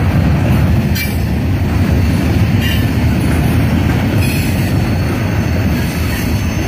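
CSX mixed freight train's cars rolling past at speed: a loud, steady rumble of steel wheels on rail, with short high-pitched wheel squeals four times.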